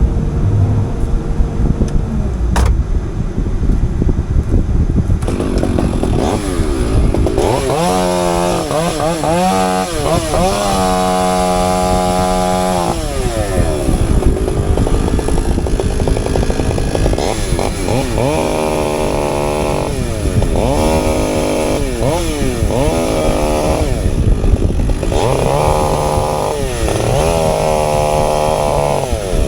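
CAT 310 excavator's diesel engine and hydraulics working under load. A whine repeatedly rises in pitch and holds level for a few seconds at a time, in bursts about halfway through and several times near the end.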